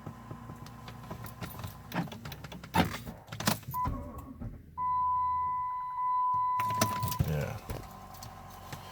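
A failed cold-start attempt on a Chrysler 300C's 5.7 Hemi: a few clicks, then a steady electric whine from the starting system for about two seconds, and the engine does not fire. The owner puts the no-start down to a low battery, at about 11 volts, and the deep cold.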